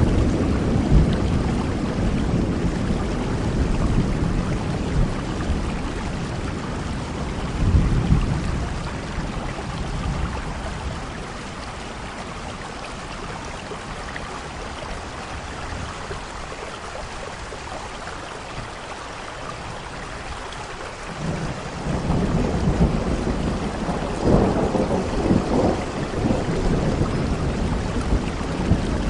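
Steady rain with rolling thunder. A low rumble fades over the first few seconds and swells briefly about eight seconds in, then a quieter stretch of rain alone, then thunder rumbles again from about two-thirds of the way through.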